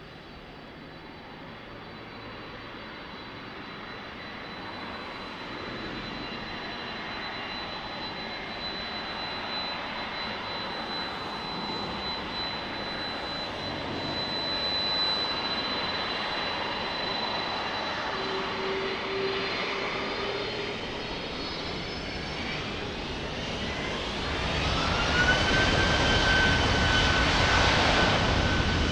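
Jet airliner's engines growing steadily louder as the aircraft nears, a rushing noise with a thin high whine. Near the end the engine whine rises in pitch and then holds steady at its loudest.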